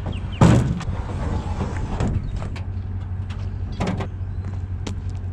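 A loud thump about half a second in, then a few lighter knocks, over a steady low hum.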